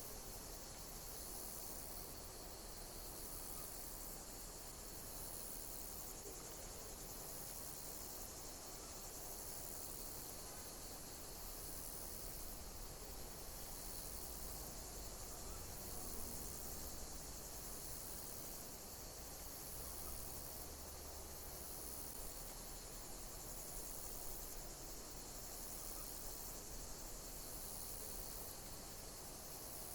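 Insects chirping: a very high-pitched call repeating about every one and a half seconds over a steady hiss of other insects.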